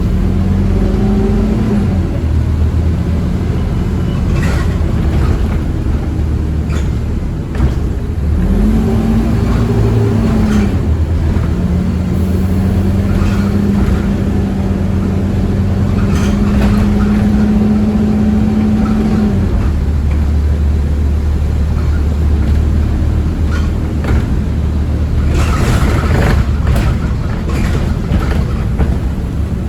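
Scania OmniCity bus under way, heard from inside the cabin: a steady engine and drivetrain drone with a tone that rises in pitch about a quarter of the way in, holds, then drops away about two-thirds through, leaving a lower drone. Scattered rattles from the body run through it.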